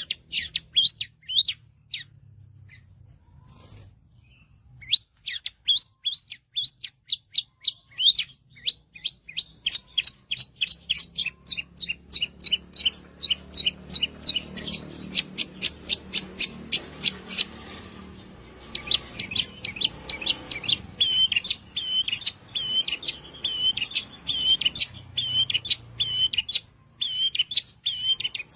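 Long-tailed shrike (cendet) singing a rapid, energetic song: long runs of quick, sharp chirps, about five a second, broken by a short pause near the start. In the second half it switches to a run of repeated, slightly lower notes.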